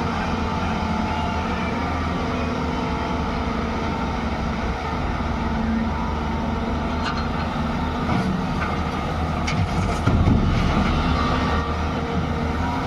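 JCB 205 excavator's diesel engine running steadily under working load, with a few sharp knocks and a brief louder rumble about ten seconds in.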